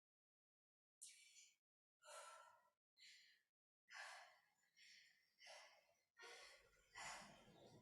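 A woman breathing out in short, faint, breathy puffs, about one a second, from the effort of a set of weighted arm extensions.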